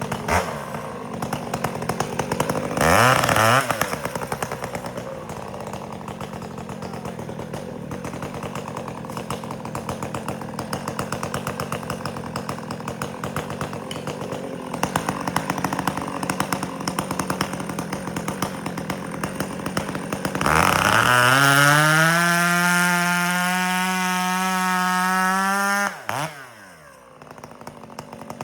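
Two-stroke chainsaw idling, with a short blip of the throttle a few seconds in. About twenty seconds in it revs up to full throttle and holds there for about five seconds, then drops back to a quieter idle.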